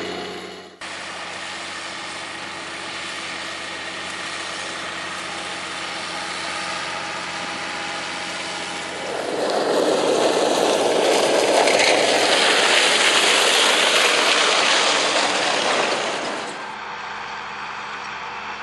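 Farm machinery engine running steadily, broken by a sudden cut just under a second in. From about nine seconds in, a louder, rougher and noisier stretch lasts some seven seconds before it drops back to a quieter engine sound.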